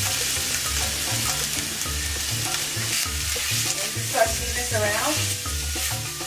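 Diced onion, ginger and garlic sizzling steadily in hot olive oil in a stainless steel pan, stirred with a spatula.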